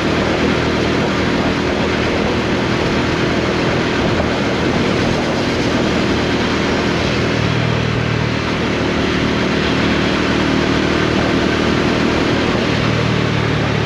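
Bajaj Dominar 400's single-cylinder engine running steadily while riding, heavily mixed with wind and road noise. The engine note shifts a little about halfway through and again near the end.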